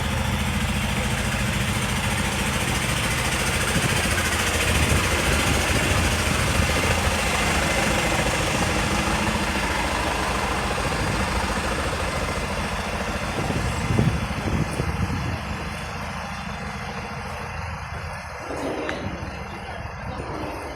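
Subway train running, a steady loud rumble and rush of wheels and motors heard from inside the car, easing off in the last few seconds.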